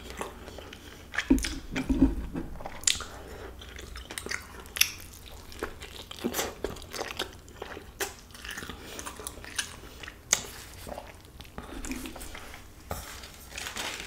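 A person biting and chewing a carnitas burrito close to a microphone, with many short mouth clicks and smacks scattered throughout.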